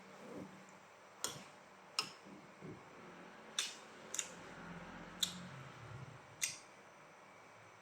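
Close-up eating sounds: six short, crisp clicks of chewing and biting, spaced about a second apart.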